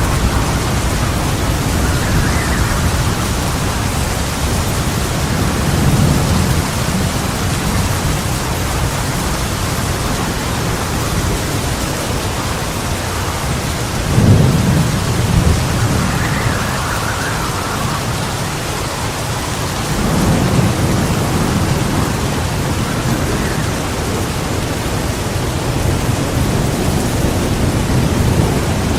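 Heavy rain falling steadily, with thunder rumbling three times; the loudest peal starts suddenly about halfway through and rolls on for a second or two.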